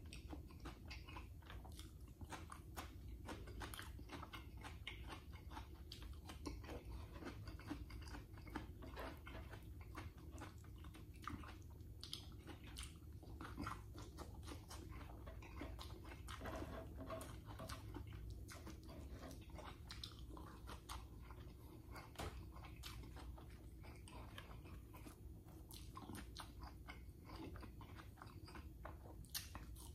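Close-miked chewing and crunching: a person eating rice, fried dried fish and cucumber by hand, with many small mouth clicks and smacks over a low steady hum.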